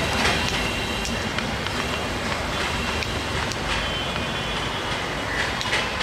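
Passenger coaches of a Bangladesh Railway intercity train rolling slowly on curved track: a steady rumble with scattered clicks from the wheels and a thin wheel squeal that comes and goes.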